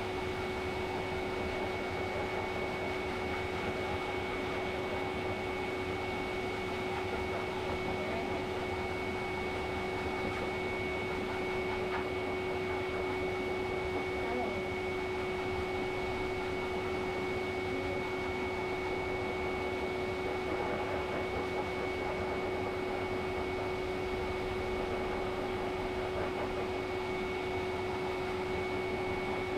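A small electric motor running steadily without a break, with a constant whine over an even rushing hiss.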